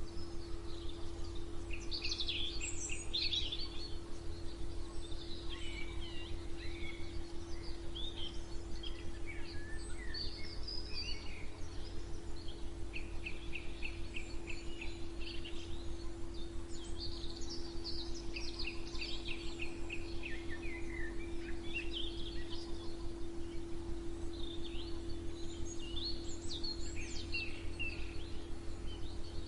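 Several songbirds chirping and singing, with short rapid trills of repeated notes several times, over a steady low hum and rumble.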